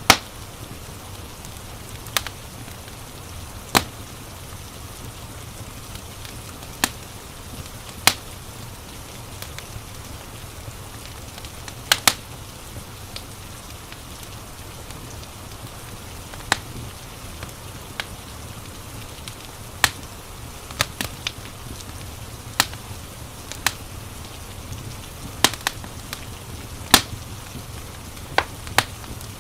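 Crackling wood fire giving sharp, irregular pops about every one to three seconds over a steady hiss of rain and a low rumble.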